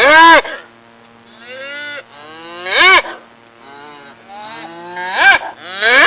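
Cattle mooing: three loud, short calls that rise and fall in pitch, near the start, about halfway through and near the end, with quieter calls between them.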